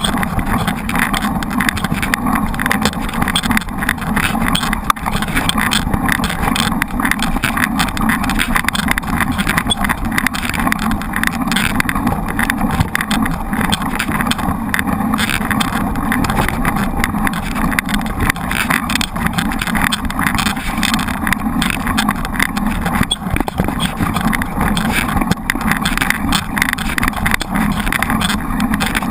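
Steady wind and riding noise on a bike-mounted action camera during a mountain bike ride: a loud, even rush with no clear pitch.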